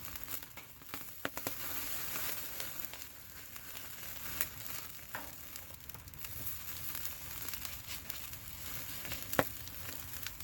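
Campfire hissing and crackling steadily, with a few scattered sharp pops.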